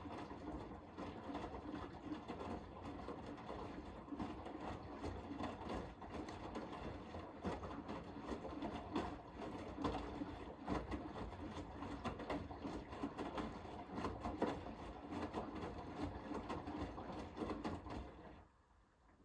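Hoover H-WASH 500 front-loading washing machine tumbling its wash load: the drum turns with steady sloshing and small knocks, then stops abruptly about eighteen seconds in.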